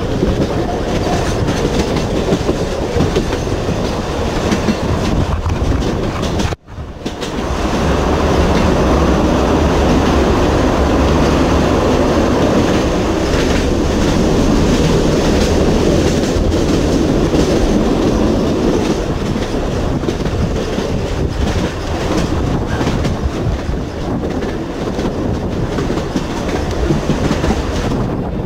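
Narrow-gauge electric train of the Sóller railway running along the track with a steady rumble. The sound breaks off for a moment about six and a half seconds in, then comes back louder for a while.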